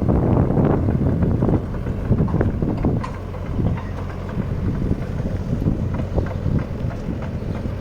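Wind buffeting the microphone, an uneven low rumble with irregular gusts.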